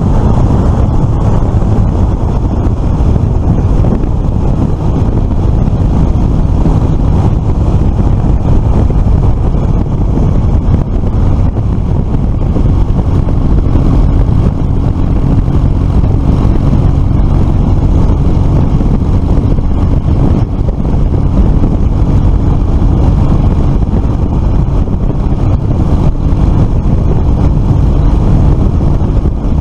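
Suzuki FL125 Address scooter's 125cc single-cylinder engine running steadily at road speed, under heavy wind rumble on the microphone.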